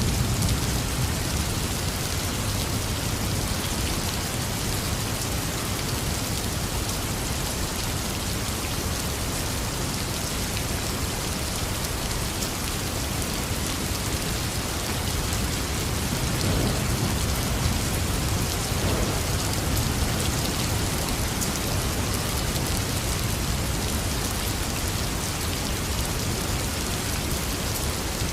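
Heavy rain falling steadily on surfaces, with a low rumble of thunder that swells a little a bit past halfway through.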